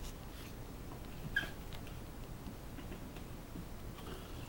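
A domestic cat gives one short, high mew about a second and a half in, over faint scattered clicks.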